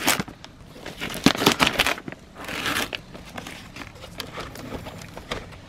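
Fireworks crackling: dense runs of quick crackles and pops in two main flurries, without big bangs.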